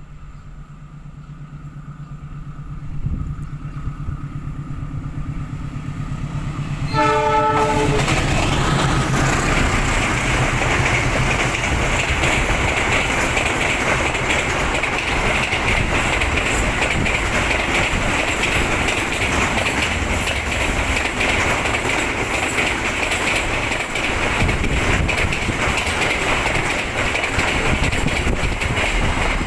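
A train approaching with its diesel engine droning steadily, a short horn blast about seven seconds in, then the loud, steady rush of wheels on rails as the train passes close by at speed.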